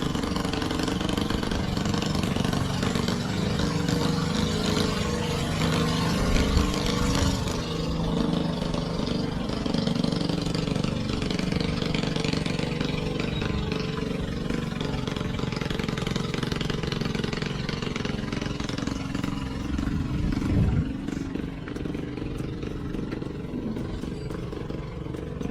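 Ferry boat's engine running steadily with a mid-pitched drone, becoming a little quieter about 21 seconds in.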